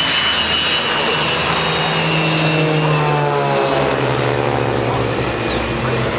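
Aircraft engines flying past low: a steady engine noise with a high whine, and an engine note that drops in pitch about halfway through as the aircraft go by.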